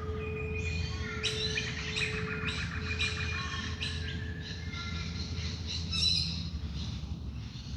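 Dawn chorus of many wild birds chirping, trilling and calling over one another. Under it a soft steady singing-bowl tone fades out about five seconds in.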